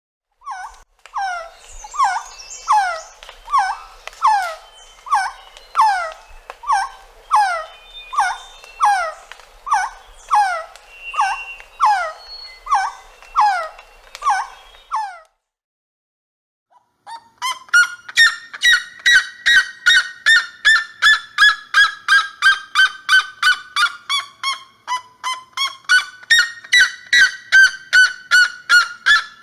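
Resplendent quetzal calling: a long series of short downward-slurred notes, about two a second. After a short pause, a red-legged seriema gives its loud yelping song, a fast run of repeated notes that falls in pitch, dips and rises again.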